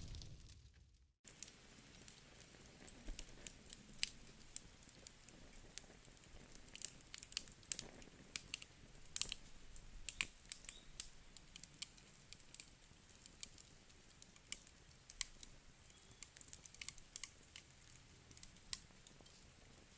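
Wood fire crackling faintly: irregular sharp pops and snaps over a soft hiss. It starts about a second in, after a louder sound fades into a brief silence.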